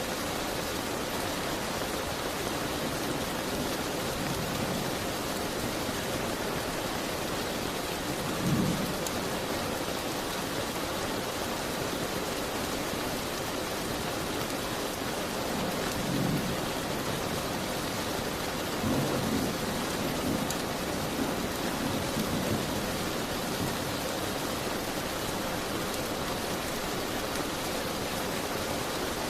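Steady rain falling on a window and roof, an even hiss, with a few brief low rumbles about eight seconds in, around sixteen seconds and again a few seconds later.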